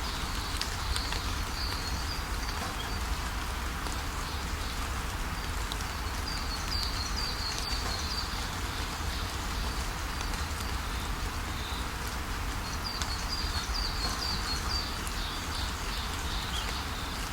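Steady rainfall, with a bird chirping in short runs of quick high notes three times over it.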